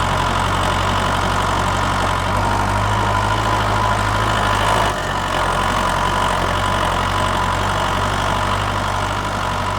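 An engine idling steadily, with a slight change in its note about five seconds in.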